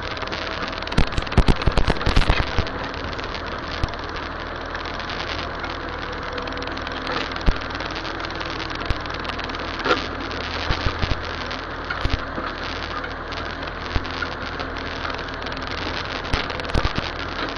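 Massey Ferguson tractor engine running steadily at a low, even speed, with scattered sharp clicks and knocks over it, several of them close together a second or two in.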